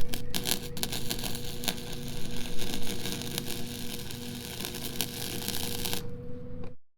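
Arc welding on an exhaust pipe joint: a dense, steady crackle with sharp pops, stopping about six seconds in, over a steady hum.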